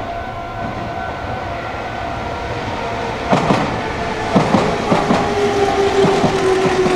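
Meitetsu electric train running into the station: from about three seconds in its wheels clatter over rail joints and points, and a motor whine slowly falls in pitch as the train slows.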